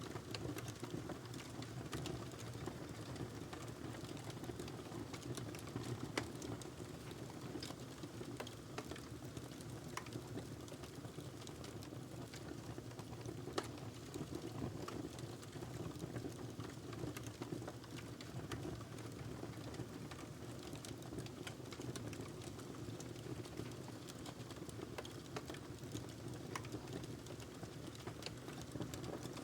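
Wood fire crackling steadily, with a low rushing burn under frequent sharp, irregular pops and snaps.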